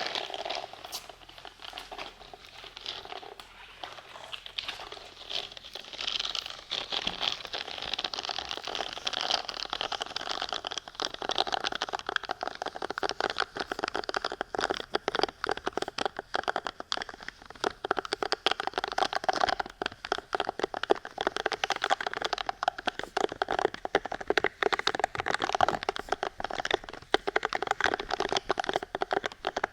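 Close-up ASMR crinkling and scratching: a dense run of fast, crackly clicks, getting busier and louder about a third of the way in.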